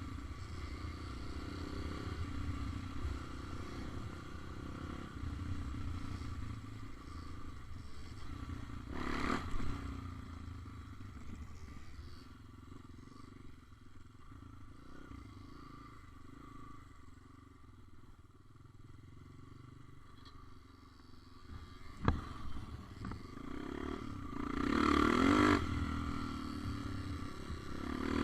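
Small motorbike engine running while riding. It is steady at first, fades away through the middle, then comes back up with a sharp knock about 22 seconds in and a louder stretch a few seconds later.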